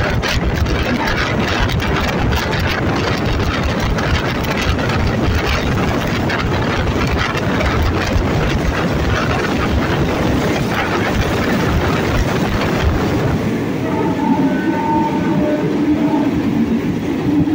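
Passenger coach running along the track directly behind an Alsthom diesel-electric locomotive: a steady rumble of the locomotive's engine with the clatter and rattle of wheels and carriage. About 14 s in the deep rumble eases and faint high steady tones join it for a few seconds.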